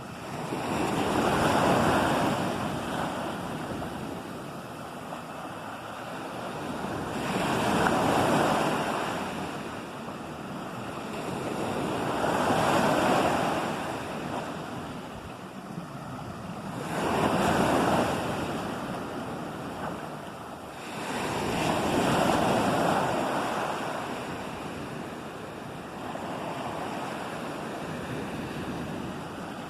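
Ocean waves breaking on a shore, one about every four to five seconds, each surge of surf fading into a softer wash before the next. A little wind noise on the microphone.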